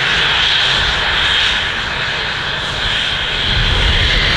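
A fixed-wing aircraft's turbine engines running: a steady, loud high whine over a low rumble.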